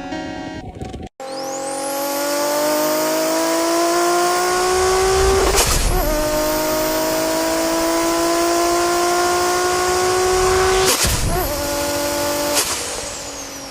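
Car engine under hard acceleration through the gears, its pitch climbing steadily in each gear, with quick gear changes about four and a half and ten seconds in. A high whine rises above it near the start.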